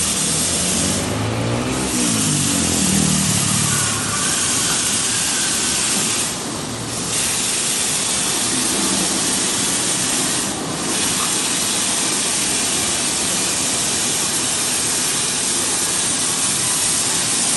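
Automatic car wash running: a steady, loud rush of spray and blown air that dips briefly three times.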